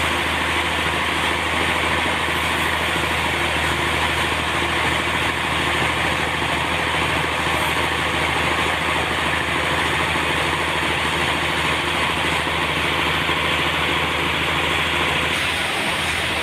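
Sawmill running steadily: a low engine hum under a loud hiss. Near the end the hum drops away and the hiss turns brighter.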